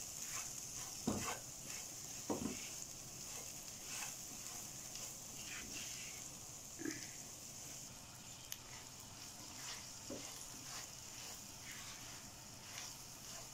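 Green chillies coated in spices frying in oil in a non-stick pan: a faint, steady sizzle while a silicone spatula stirs and scrapes through them, with a few soft knocks against the pan.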